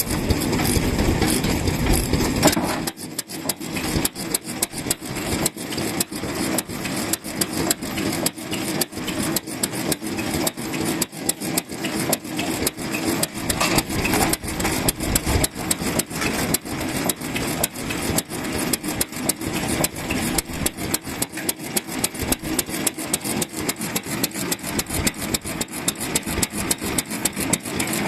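Vintage stationary kerosene engine running with a quick, even mechanical clatter of several knocks a second. The sound changes about three seconds in, from a heavier, deeper run to the lighter, sharper knocking.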